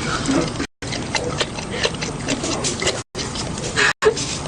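Dog chewing an orange: a run of wet smacking and clicking mouth sounds, broken by a few brief dropouts in the sound.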